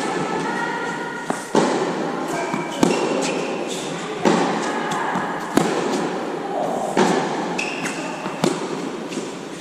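Tennis rally: a racket strikes the ball about every one and a half seconds, six sharp hits in all.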